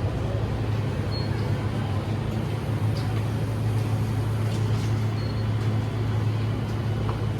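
Steady low engine hum with road noise from a vehicle running at a constant speed.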